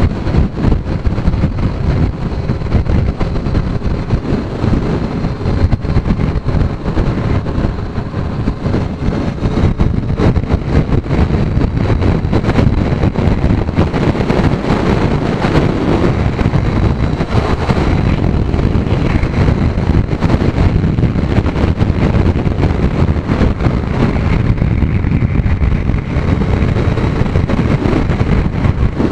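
Heavy wind rush and buffeting over the microphone of a Kawasaki Z900 motorcycle riding at speed in strong gusting crosswinds, with the engine running steadily underneath.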